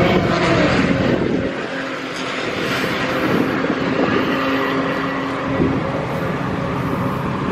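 Car engines running, loudest in the first second and a half, then settling to a steadier, slightly quieter level with a held hum.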